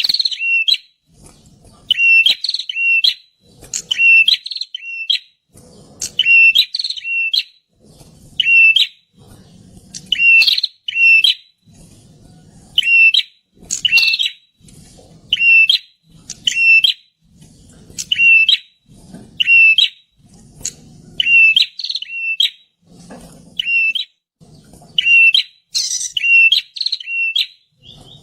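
Prinia (perenjak) calling loudly, repeating a short phrase of two or three high notes about every one and a half seconds.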